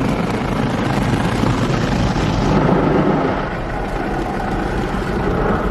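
Loud, steady rush of air with a low rumble, starting suddenly just before and holding without a break.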